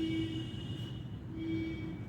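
A train running with a steady low rumble, with a held tone over it that stops about half a second in and sounds again briefly past the middle.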